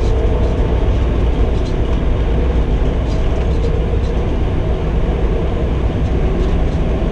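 Steady low drone of a semi truck's engine and road noise heard inside the cab while driving at road speed, with a few faint ticks.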